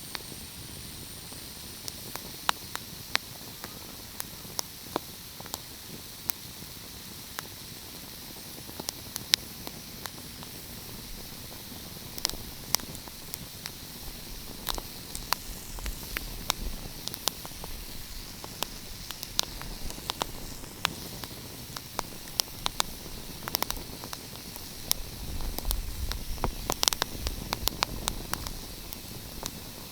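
Wood fire crackling: a steady hiss with frequent sharp pops and snaps scattered irregularly, turning busier with a low rumble about three-quarters of the way through.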